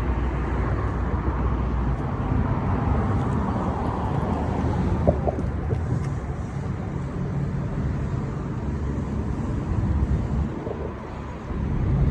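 Steady rumble of road traffic, with a brief drop in level shortly before the end.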